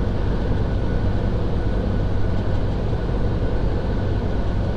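Steady low engine and road rumble of a semi-truck heard from inside the cab while driving, with a faint steady high-pitched whine over it.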